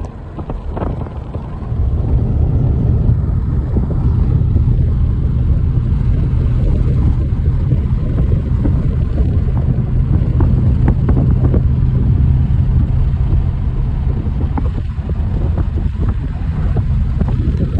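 Low, steady rumble of a car's engine and tyres heard from inside the cabin while driving, growing louder about two seconds in and then holding.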